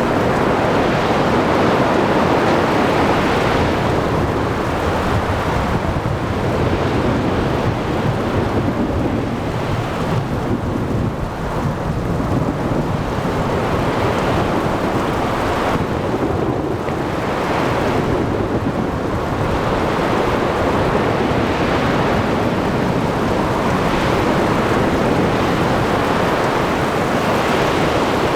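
Storm at sea: rumbling thunder over steady heavy rain, with splashing waves and blowing wind, surging louder every few seconds.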